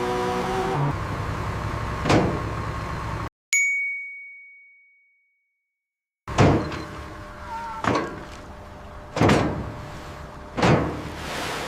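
An engine revving up and cutting off, then a single ringing ding that fades out in silence, followed by a series of heavy knocks about every second and a half.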